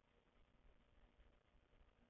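Near silence, with only a faint low rumble and hiss in the background.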